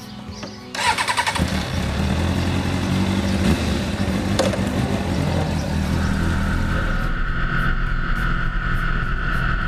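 Motorcycle engine cranked by the electric starter about a second in, catching and running steadily. The sound changes about six to seven seconds in, when a steady higher tone joins it.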